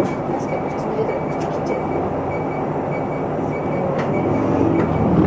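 Interior running sound of an Isuzu Erga Mio city bus's four-cylinder turbo-diesel engine with road noise, the engine note growing louder near the end as it pulls harder. A short high beep repeats about two and a half times a second through most of it.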